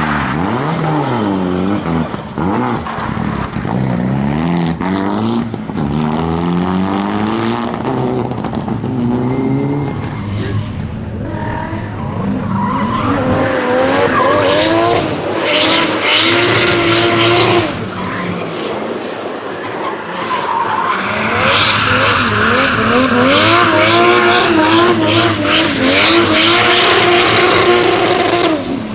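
Rally car engines revving hard, the pitch climbing and dropping back again and again with gear changes and lifts, as the cars are driven at speed on a stage. Tyre and sliding noise runs under the engines, and the sound is loudest about halfway through and again over the last third.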